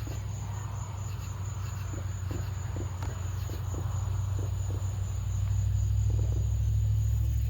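Crickets chirping steadily over a constant low rumble that grows a little louder about five seconds in.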